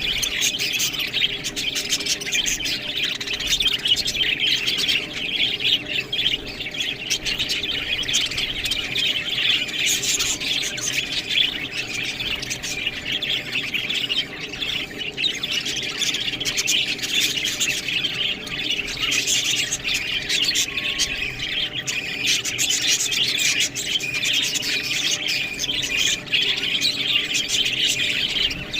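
A flock of budgerigars chattering and squawking without a break, many quick chirps overlapping.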